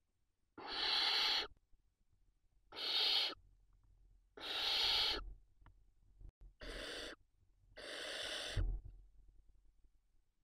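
Barn owl young giving hissing begging calls: five harsh, breathy hisses, each under a second long, about two seconds apart.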